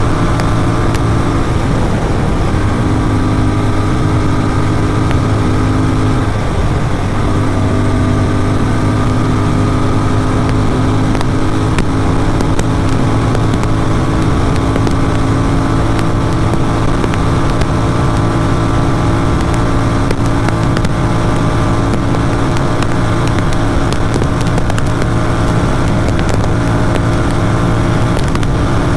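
Motorcycle engine with an aftermarket Atom exhaust running hard at a steady high speed, with wind rushing past. The engine note breaks and dips briefly about six to seven seconds in, then settles again.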